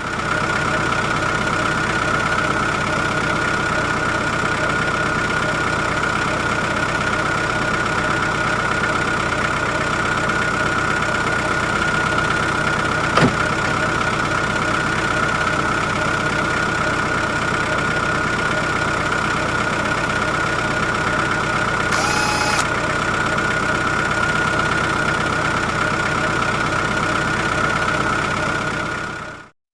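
Steady engine running sound, a constant drone with a high band in it. There is a single click about halfway through and a short beep about three-quarters of the way in.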